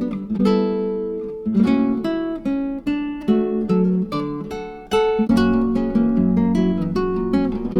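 Background music: acoustic guitar plucked and strummed in a steady run of notes.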